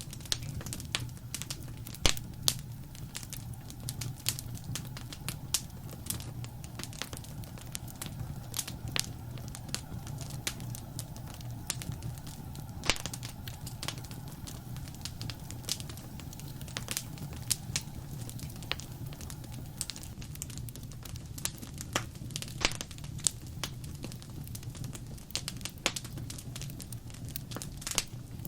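Wood fire in a fireplace crackling: frequent, irregular sharp pops and snaps over a steady low rumble of the flames. The loudest pop comes about two seconds in.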